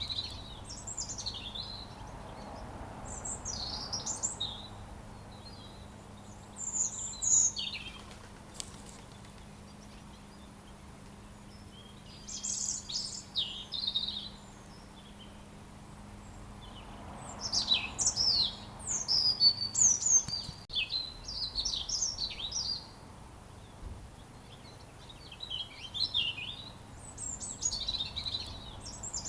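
Robin singing: short phrases of quick, high warbling notes, each phrase a second or two long, separated by pauses of several seconds, with the longest run of song a little past the middle.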